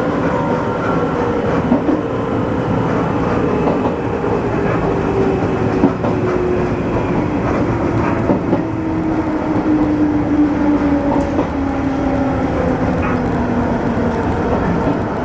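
Izuhakone Railway Sunzu Line electric train running, heard from inside the carriage: the motor whine falls steadily in pitch as the train slows for a station, over a rumble with a few rail-joint clicks.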